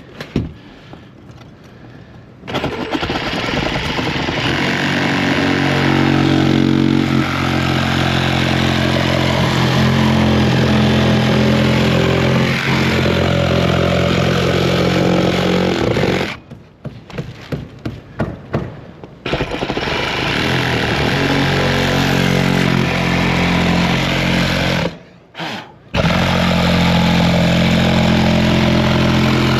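A motor running steadily at one pitch in three spells, cutting out about 16 seconds in, with a few knocks during the three-second pause, and again briefly near 25 seconds.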